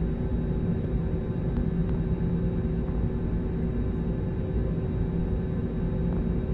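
Jet airliner cabin noise in flight: a steady drone of engines and rushing air, heaviest in the low range, with a few steady hum tones and no change in level.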